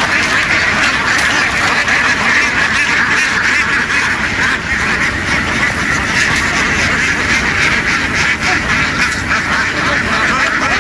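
A large flock of domestic ducks quacking all together, a dense, unbroken chorus of overlapping calls.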